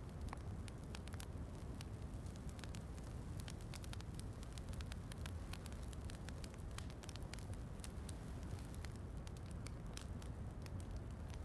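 Wood fire crackling in a fireplace: many sharp pops and snaps scattered throughout, over a steady low rumble.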